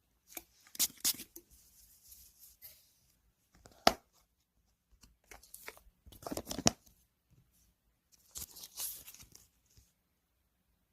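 Plastic packaging being handled while packing photocards: crinkling and tearing rustles in several short bursts, with one sharp tap about four seconds in.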